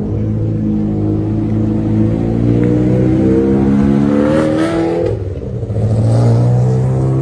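Ferrari F360 Challenge race car's V8 engine accelerating hard, its pitch rising steadily for about four seconds. About five seconds in it drops back briefly, at a gearshift or lift, then pulls again.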